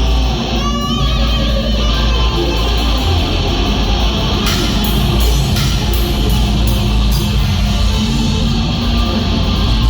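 A live rock band playing loud, with distorted electric guitars, bass and a drum kit. A run of evenly spaced cymbal strikes comes in about halfway through and lasts a few seconds.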